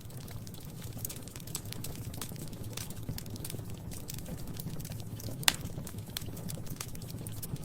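Wood fire crackling in a fireplace: scattered sharp pops and snaps over a steady low rumble, with one loud pop about five and a half seconds in.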